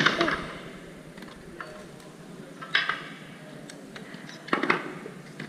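Wooden toy pieces clacking against a wooden play table as a child picks up and sets them down: three short bursts of clatter, the loudest right at the start.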